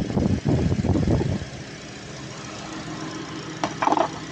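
Subaru Legacy engine idling with a steady low hum, under louder rough noise for the first second and a half.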